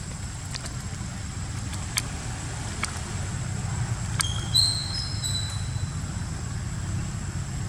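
A baby monkey gives a short run of high-pitched squeaks about four seconds in, over a steady low rumble and a few faint clicks.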